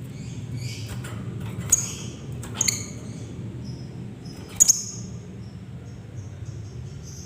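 Lovebird giving short, shrill high-pitched chirps. Three loud ones come at about 1.7 s, 2.6 s and 4.6 s, with softer chirping between them, over a steady low hum.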